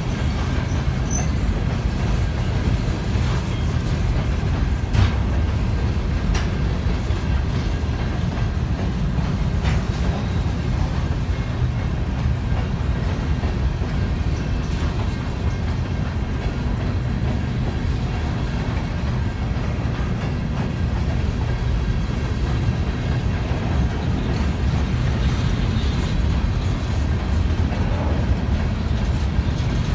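Freight cars rolling past a level crossing: a steady low rumble of steel wheels on the rails, with faint clicks as the wheels pass over the rail joints. The crossing bell rings faintly over it.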